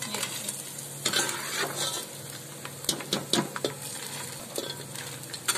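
Edible gum (gond) sizzling as it fries in hot ghee. A perforated metal skimmer scrapes and clacks against the metal pot several times as the puffed pieces are scooped out.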